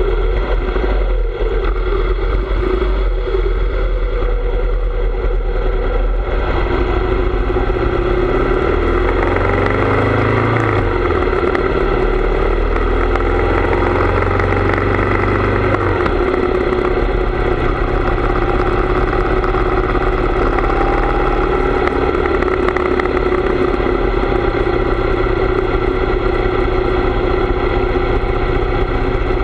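Harley-Davidson V-twin motorcycle engine running on the road, its pitch rising and falling between about 7 and 16 seconds in, then holding steady.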